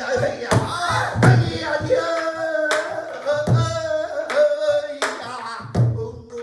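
Pansori singing with long, wavering held notes, accompanied by several strokes on the gosu's buk barrel drum, some deep thumps on the drumhead and some sharp cracks.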